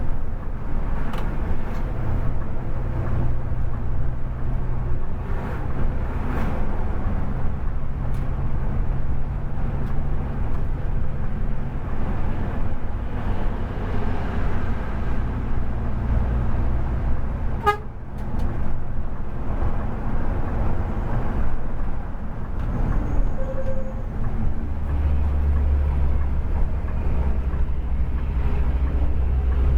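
Scania K410 bus on the move: a steady, loud low engine rumble with road noise, which deepens about 25 seconds in. A single sharp click about 18 seconds in.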